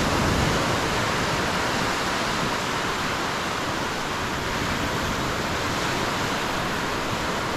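Lake Superior waves breaking and washing on the beach: a steady, unbroken rushing noise.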